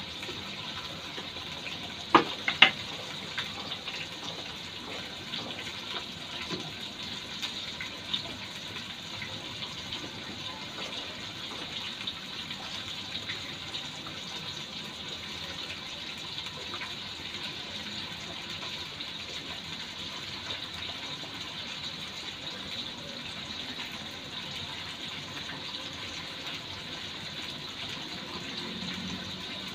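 Cubed potatoes frying in oil in a stainless-steel wok: a steady sizzle as they cook towards light brown. Two sharp knocks about two seconds in.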